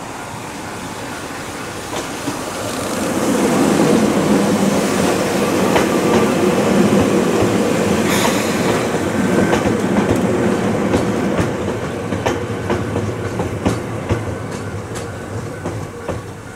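Ohmi Railway electric train approaching and passing close by. The running noise swells over the first few seconds, the wheels click over the rail joints as the cars go past, and it fades near the end.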